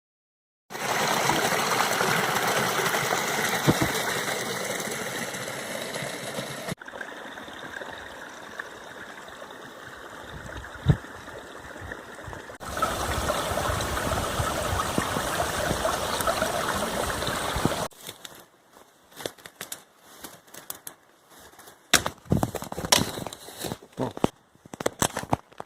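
Steady rushing of a stream, cut between takes of differing loudness. In the last several seconds the rush drops away, leaving scattered knocks and clicks.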